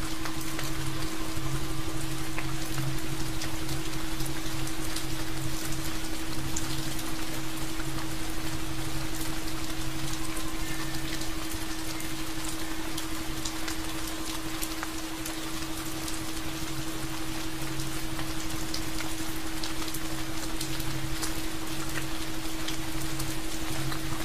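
Steady rain with many separate drop ticks, over a steady low hum.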